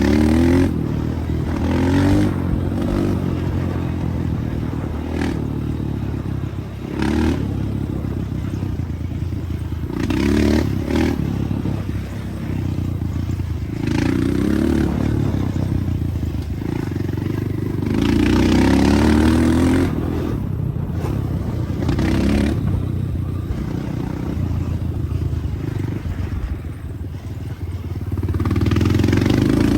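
Dirt bike engine running under repeated bursts of throttle, its pitch rising in each short burst, with clatter and scraping over the engine.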